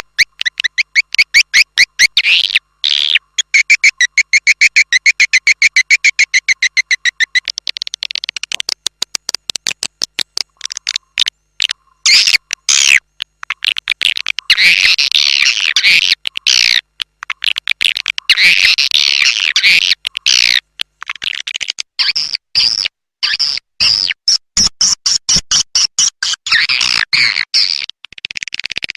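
Swiftlet call recording used as a lure in swiftlet farming: fast, high chittering trills and rapid clicks from swiftlets, in bursts with brief pauses.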